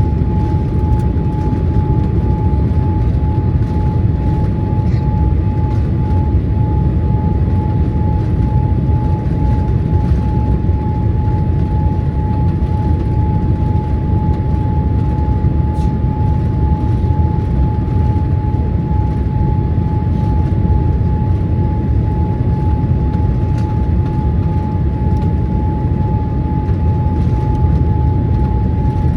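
Cabin noise of a Boeing 787-8 Dreamliner on final approach: a steady, deep roar of engines and airflow, with a constant high whine running through it.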